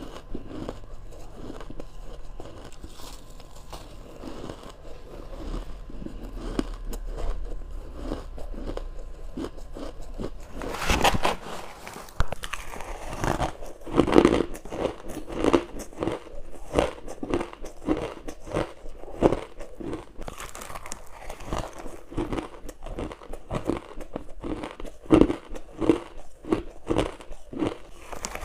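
Close-up biting and crunching of humidifier freezer frost and crushed ice. Soft, fine crackling at first; a little over a third of the way in comes a loud bite, followed by a steady run of sharp crunches about two a second.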